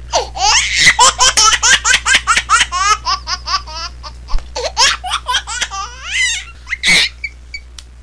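Baby laughing: a quick run of short giggles for the first few seconds, then more scattered laughs, with one louder burst of laughter near the end.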